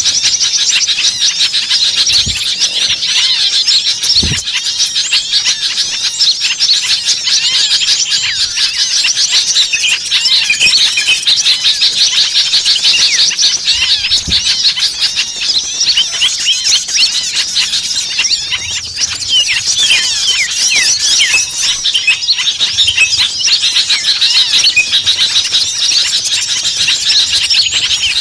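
A dense, noisy chorus of many small songbirds chirping and trilling over one another without a break. It is a bird-lure recording of agitated small birds, used to draw small birds in.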